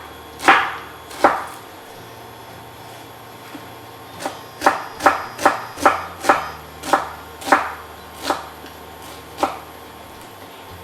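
Kitchen knife slicing a red onion into half rounds on a chopping board, each cut ending in a sharp knock of the blade on the board. Two cuts come near the start, then after a pause a run of about ten cuts at roughly two to three a second, slowing near the end.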